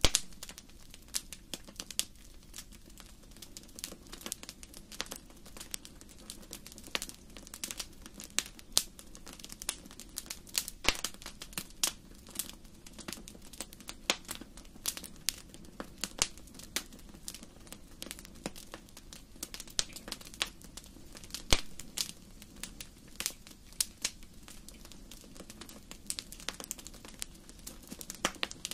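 Wood fire crackling in a fireplace: irregular sharp pops and snaps, several a second, over a low steady sound of the burning.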